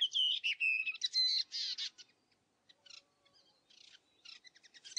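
Songbirds singing in quick chirps and whistled notes, loud for the first two seconds, then fainter and sparser.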